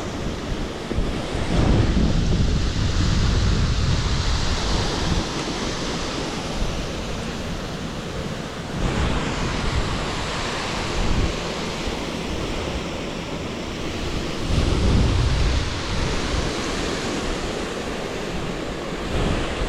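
Waterfall cascading over rocks into a pool: a loud, steady rush of falling water, with wind buffeting the microphone in gusts, strongest about two seconds in and again around fifteen seconds.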